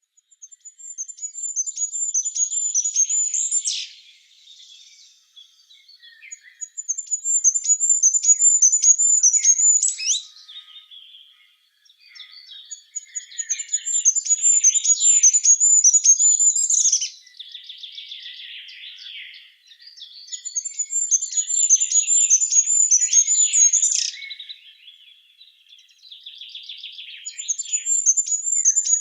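A songbird singing the same phrase over and over, five times. Each phrase lasts about three seconds: a rapid run of high, thin notes that ends in a quick flourish. Fainter twittering fills the gaps between phrases.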